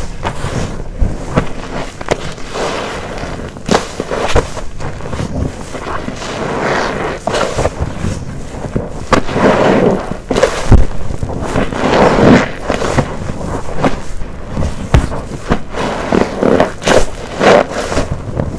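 Black waffle-textured car wash sponge soaked with soapy detergent, squeezed over and over by hand, squelching and crackling in irregular surges with sharp clicks.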